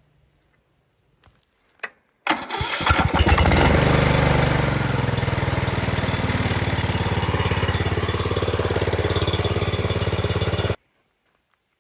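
Angle grinder cutting into a seized steel screw or bolt: a rough start about two seconds in, then a steady grinding run with a hiss, cut off suddenly about a second before the end.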